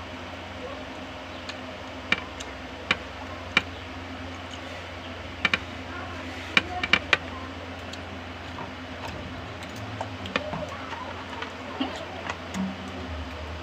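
Eating sounds from a person having rice with chicken curry: sharp wet clicks of chewing and lip smacks, scattered irregularly over a steady low hum.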